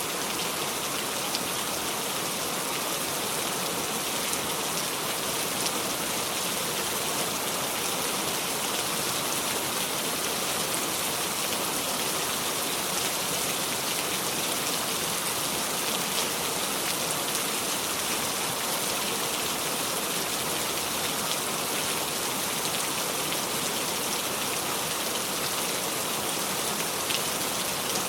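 Steady heavy rain falling, an even hiss with scattered drops ticking, no thunder.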